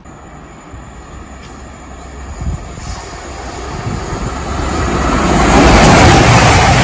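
A train approaching along the line. Its rushing noise grows steadily and is loud over the last couple of seconds.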